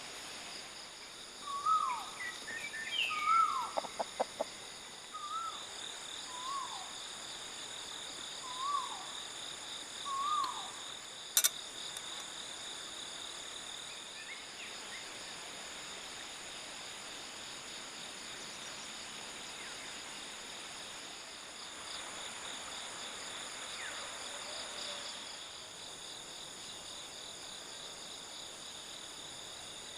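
Insects trill steadily in several high pitches through the whole stretch. Over this, a bird calls a series of short, falling notes, about seven of them, in the first ten seconds. There are a few soft clicks around four seconds in and one sharp click at about eleven seconds.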